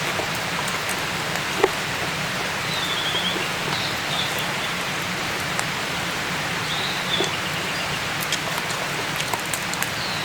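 Steady rain falling, with individual drops ticking close by and one louder drop about one and a half seconds in. A small bird gives a short rapid trill twice.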